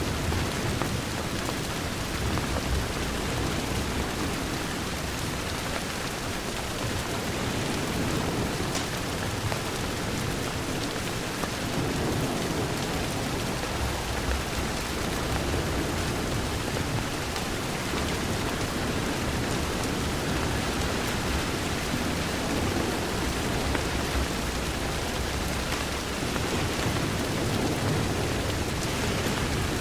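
Steady rain against a window, an even hiss of drops, with a deep rumble that swells and fades underneath.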